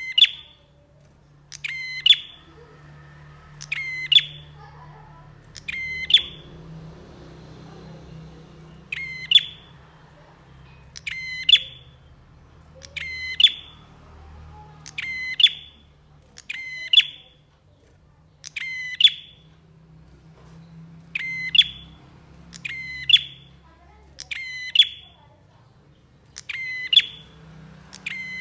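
Prenjak (prinia) calling: a short, sharp chirping call repeated at an even pace, about once every one and a half to two seconds.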